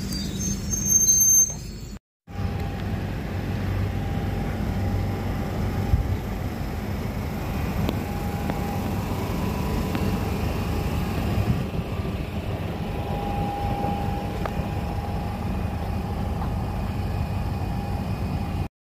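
London Underground Central line 1992-stock tube train running past, with a brief high wheel squeal about a second in; after a short break, the train's steady running rumble continues with faint whining tones as it moves away.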